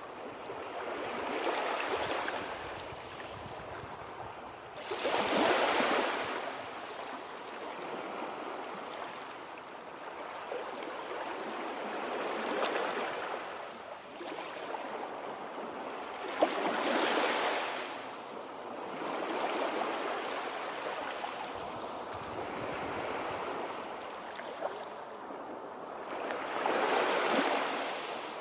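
Sea waves washing in, a steady hiss of water that swells into a louder surge every few seconds, the biggest about five seconds in.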